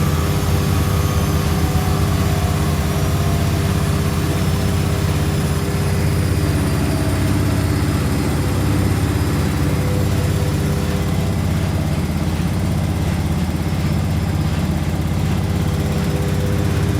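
Washing machine running a spin: a steady low hum with the motor's whine, which slowly falls in pitch.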